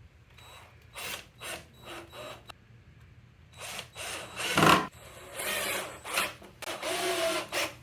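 Rummaging through parts and tools: a few short rubbing scrapes, then longer scraping and rattling with one sharp knock about halfway through and a brief squeak near the end.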